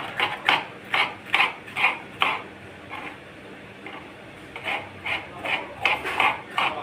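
Rhythmic kitchen-work strokes, about two a second, in two runs with a pause of about two seconds between them.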